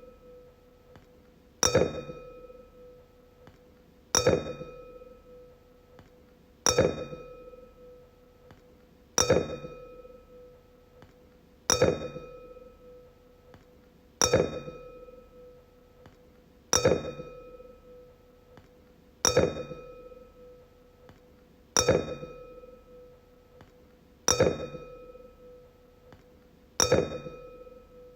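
A wine glass struck about every two and a half seconds, eleven times, each strike ringing a clear tone that fades away before the next.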